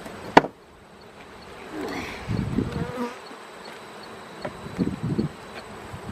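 Honeybees buzzing around a hive, with bees passing close by twice, about two seconds in and again about five seconds in. A single sharp knock sounds just under half a second in.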